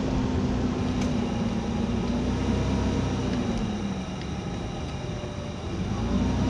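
An engine running steadily, its pitch and loudness easing down about four seconds in and picking up again near the end.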